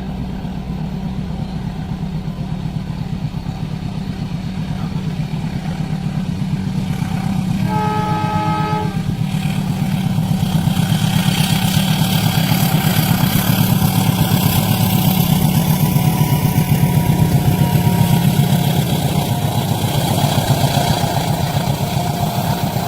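Train approaching and passing a level crossing: a horn sounds once, about a second long, about eight seconds in, then the rumble and clatter of the train grow louder through the second half, over a steady low engine rumble.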